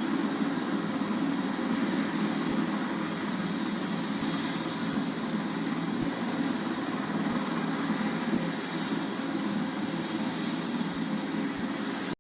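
Helicopter turbine engines and rotor running with a steady, even noise.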